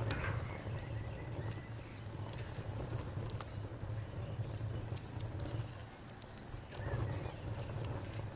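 Crackling wood fire with scattered sharp pops over a low, steady rumble, while a cricket chirps in an even, unbroken pulse.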